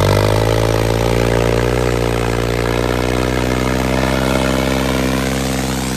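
Tractor diesel engine running loud and steady under load, its pitch settling at the start and the loudness easing slightly toward the end.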